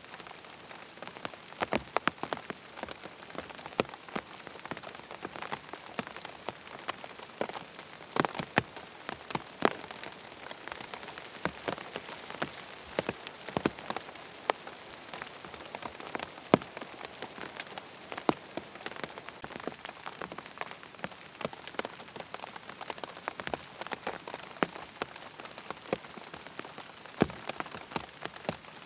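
Steady rain falling, with many irregular sharp drips and taps standing out over the even hiss.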